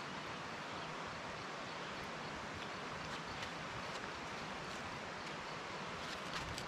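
Steady, even rushing outdoor background noise, with a few faint clicks near the end.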